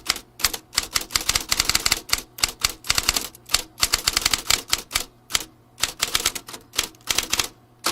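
Vintage typewriter being typed on: rapid runs of key strikes clacking, broken by short pauses.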